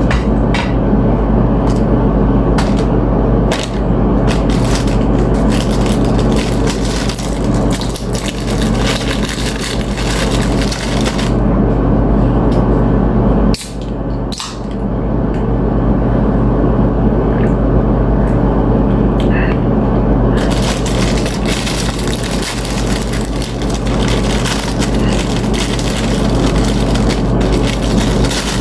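Chips being crunched and chewed close to the microphone, many sharp cracks, over a steady low hum.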